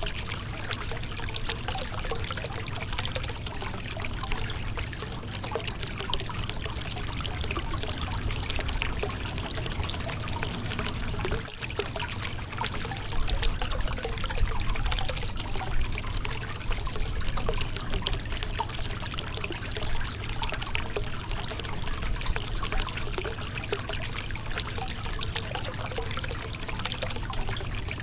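River water flowing and trickling over a rocky riverbed, a steady rushing babble with a momentary break about eleven seconds in.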